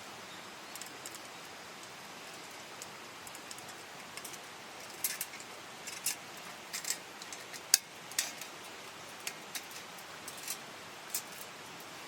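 A small stream running steadily, with a scattering of sharp, light clicks and clinks, the loudest about two-thirds of the way through.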